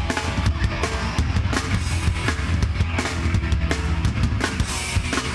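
A heavy rock band playing live: a full drum kit with bass drum and snare driving under guitars, in an instrumental stretch with no vocals.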